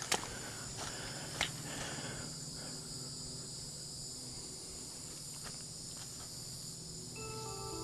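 Evening insect chorus, crickets or similar, a steady high trill, with a few footsteps on the trail in the first second and a half. Music fades in near the end.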